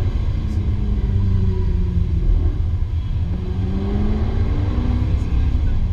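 Jaguar F-Type R's supercharged V8 running at low revs with a steady low rumble. The engine note climbs from about three seconds in as the car accelerates gently.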